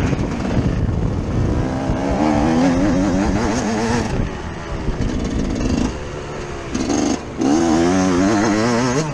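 Yamaha YZ 125 two-stroke single-cylinder motocross engine revving under load, its pitch rising and falling as the throttle is worked. It eases off near 4 s and cuts out sharply for a moment at about 7 s, then revs hard again.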